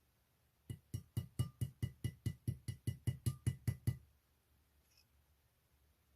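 A quick, even run of about fifteen dull knocks, some four or five a second, lasting about three seconds and then stopping.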